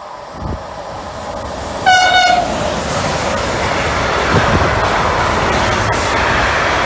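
A train passing through a station at speed: its running noise grows louder as it approaches and stays loud, and about two seconds in the train gives one short horn blast on a single note.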